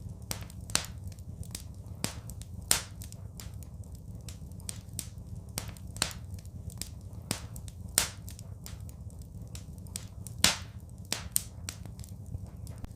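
Wood fire crackling and popping: irregular sharp snaps, a few of them much louder, over a steady low rumble of the flames.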